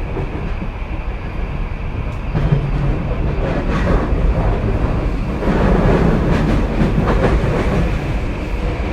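Tokyu 2020-series electric train running between stations, heard from inside the car: a steady rumble of wheels on rail with repeated rail-joint clicks, growing louder about five seconds in.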